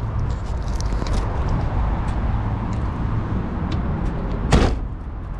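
Steady low rumble of a BMW E36 car with small clicks and rattles, and one loud short thump about four and a half seconds in.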